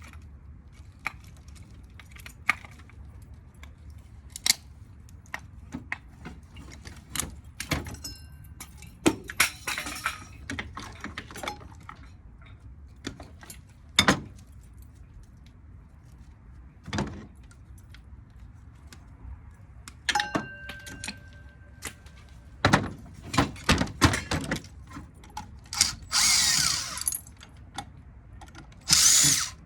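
Tools working on a ceiling fan motor: scattered clanks and knocks on metal, a few short rasping bursts, and once a brief metallic ring as it is being taken apart for its copper windings.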